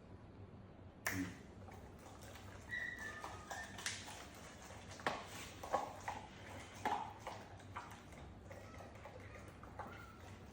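A dog eating from its food bowl, with scattered clinks and taps of the bowl as it eats and licks the bowl clean.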